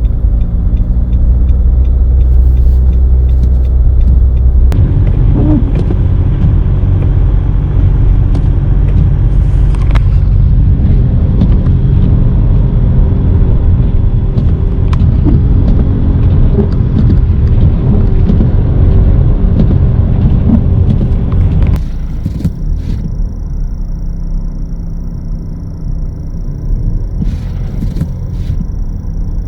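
A car driving, with a steady low rumble from its engine and the road. The sound changes character about five seconds in and grows quieter a little past two-thirds of the way through.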